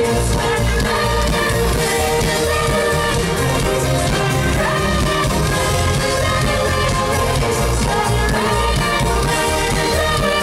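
Live pop band playing loud through a concert sound system, with steady bass and drums and a voice singing over it.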